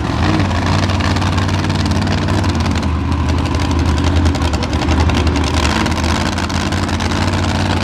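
Monster truck engine running loud and steady, holding a deep, even pitch without big revs.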